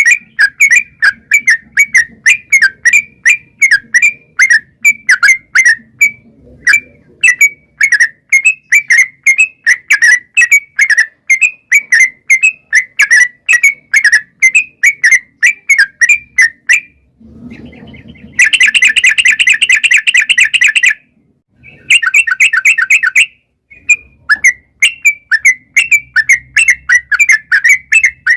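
Yellow-vented bulbul calling in a long run of short, repeated notes, about three a second. About two-thirds of the way through the run breaks off into a fast, dense chattering rattle, twice, before the repeated notes start again.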